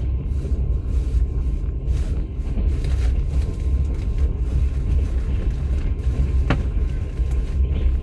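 Steady low rumble of a moving passenger train heard from inside a platskart sleeping carriage, with a single sharper click about six and a half seconds in.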